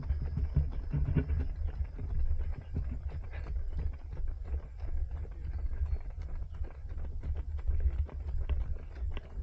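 Running footsteps of a group of runners, a quick irregular patter of many feet, over a steady low rumble from the body-worn action camera's microphone.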